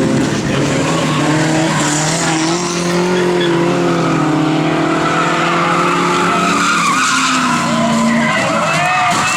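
Several banger race cars' engines running and revving on the track at once. Their pitches rise and fall over one another.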